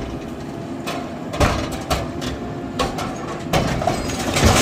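Backhoe loader's diesel engine running steadily, with about half a dozen sharp knocks at uneven intervals.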